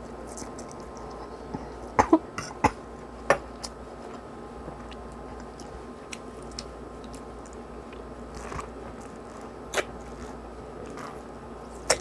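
Mouth sounds of a person eating instant noodles: chewing with sharp smacking clicks, a cluster of them about two to three seconds in and another near ten seconds. A steady hum runs underneath.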